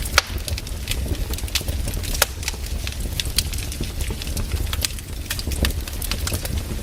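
Wood fire crackling, with irregular sharp pops of burning logs several times a second and a steady low rumble underneath. The loudest pops come just after the start and about two seconds in.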